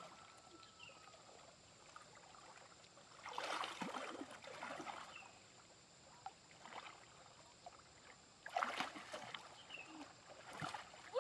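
Water splashing and sloshing in a shallow stream, in two bouts: about three seconds in and again near nine seconds.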